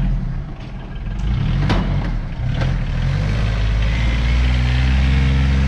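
Diesel tractor engine running steadily, driving the seed drill's fan, which has been spun up to about 3,600 rpm. A second engine note rises and falls about two seconds in, with a few sharp clicks.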